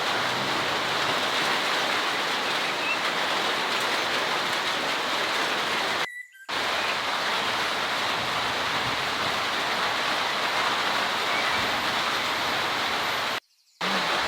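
Heavy rain pouring down in a steady, dense hiss. It drops out to silence for a moment twice, about six seconds in and near the end.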